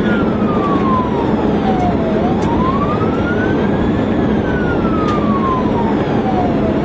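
Police siren on a slow wail: it falls, rises and falls again over a few seconds. Underneath is steady road and engine noise from a police cruiser in a highway pursuit.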